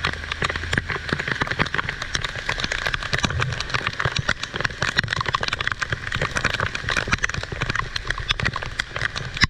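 Heavy rain falling, a dense, steady patter of close drop impacts, with a low rumble that fades about a second in.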